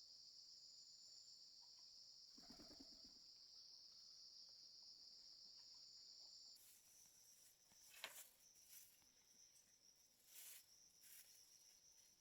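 Faint, steady high-pitched chirring of insects, such as crickets, that cuts off suddenly about six and a half seconds in. After that come scattered faint clicks and rustles. A brief low call sounds between two and three seconds in.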